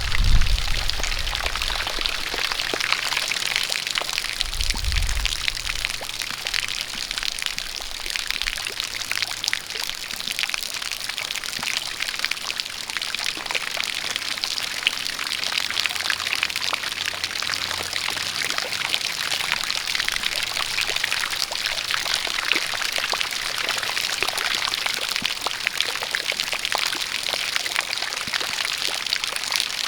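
Rain falling together with a steady stream of water pouring from a spout, an even hiss dotted with many small drop ticks. A brief low rumble comes near the start and again about five seconds in.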